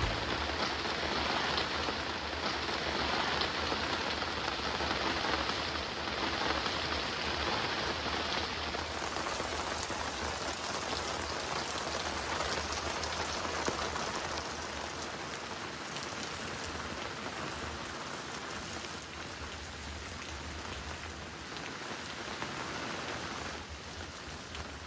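Heavy rain with big, thick drops falling steadily, a dense patter that eases a little toward the end.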